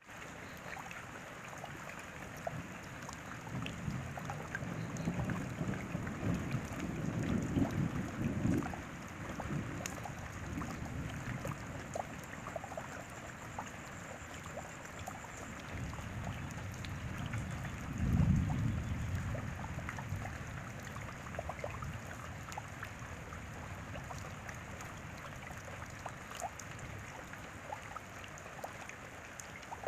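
Steady rain with many small drop impacts pattering. A deep low rumble swells up twice, from about four to nine seconds in and again briefly about eighteen seconds in.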